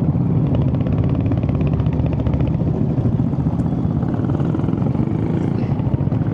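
Royal Enfield Hunter 350's single-cylinder engine running steadily while riding along, a rapid, even firing pulse.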